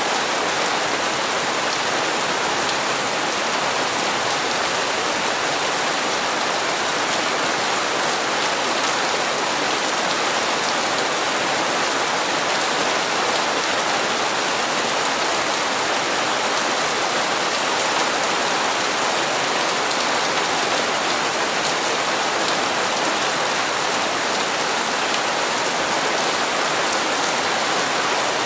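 Steady heavy rain falling on hard surfaces, an even hiss with fine scattered drop patter and no change in intensity.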